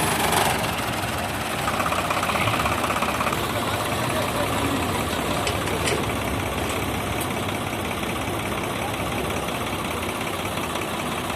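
Heavy tractor-type diesel engine running steadily.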